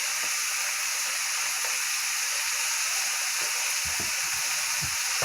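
Cabbage frying in bacon grease in a wok, a steady sizzle, with a few soft low knocks near the end.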